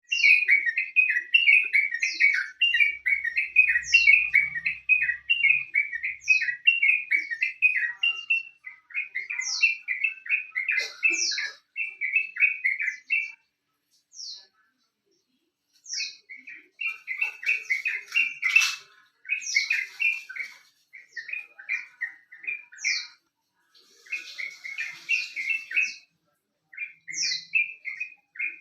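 Yellow-vented bulbul (trucuk) singing: quick bubbling, chattering phrases repeated almost without a break, with short high notes that sweep downward every second or so. The singing stops for a couple of seconds about halfway through, then goes on.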